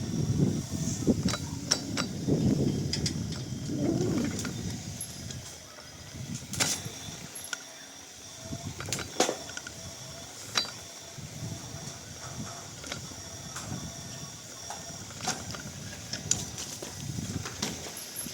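Irregular mechanical clicks and clinks over a low rumble, which is heavier in the first few seconds and then dies down.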